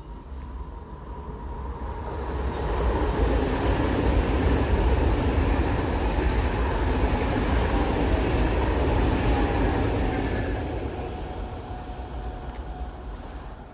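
A passenger train passing by on the line: its rumble swells over the first few seconds, holds with a faint steady whine, then fades away near the end.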